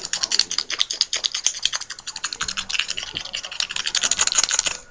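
A child making a fast run of sharp clicking mouth sounds, roughly ten clicks a second, that stops suddenly.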